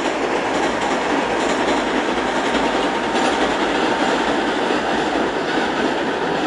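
Kintetsu Minami-Osaka Line electric train running across the Yamato River railway bridge, a steady, even running noise without breaks.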